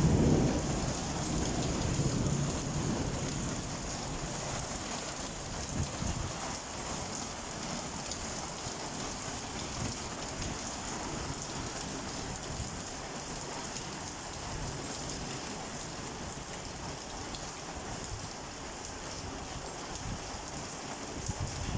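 Heavy rain falling steadily, a constant even hiss. A low rumble fades out over the first few seconds.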